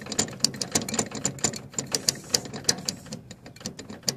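Clutch on a running Gravely 8242 tractor, making rapid, irregular clicking and rattling over a faint steady hum. The owner suspects a worn clutch bearing on this side, which has side-to-side play.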